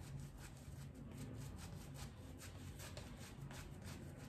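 Shaving brush rubbing a creamy lather over the face: faint, quick swishing strokes of the bristles, several a second, over a low steady hum.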